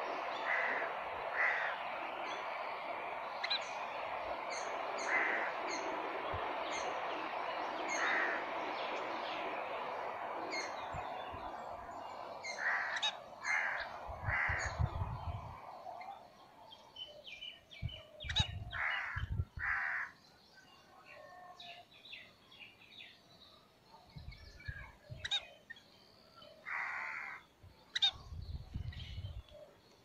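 Birds calling: harsh, caw-like calls repeated in short bursts, with some higher chirps. For the first dozen seconds they sit over a steady, noisy background, which then dies away, and a few low rumbles come with the later calls.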